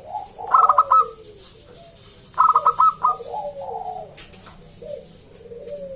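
Zebra dove (perkutut) singing: two loud runs of quick staccato coos, about four notes each, roughly two seconds apart. Softer, lower falling coos fill the gaps between them.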